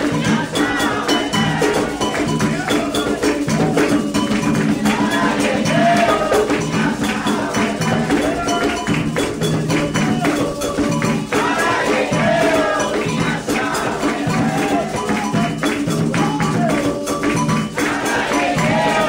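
Candomblé ritual music: atabaque hand drums and shaken or struck percussion keep up a steady beat while voices sing a chant.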